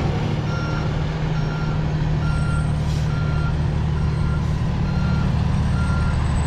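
Reversing alarm of a Western Star vacuum truck beeping steadily, about one beep a second, over the truck's diesel engine running: the truck is backing up.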